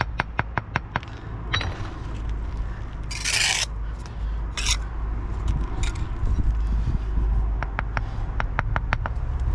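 Bricklaying work with a trowel: runs of quick sharp taps, about five a second, near the start and again near the end, and a few short scrapes in between, the loudest about three seconds in. A steady low rumble runs underneath.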